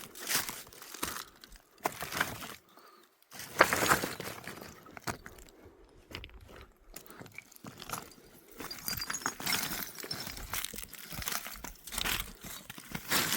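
Footsteps crunching and rustling on rough, stony ground and dry brush, coming irregularly. The loudest crunch comes about four seconds in.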